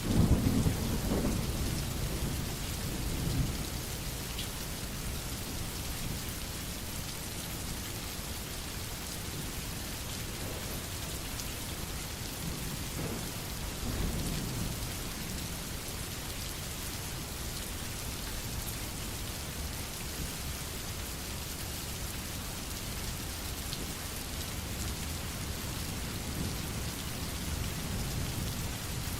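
Steady rain falling, with low rumbles of thunder in the first few seconds and again about halfway through.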